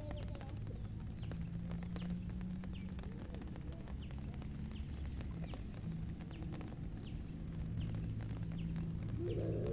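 Rain falling on a pond, with irregular drops tapping close by over a low steady hum.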